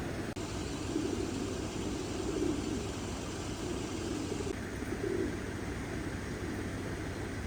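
Domestic pigeons cooing, several low wavering coos following one another about once a second, over a steady low rumble.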